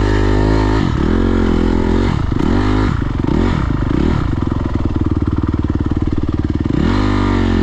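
Dirt bike engine revving hard in repeated bursts, its pitch rising and falling several times, then holding a steady pitch for a few seconds before one more rev near the end. The rider is working the throttle for grip on slippery mud.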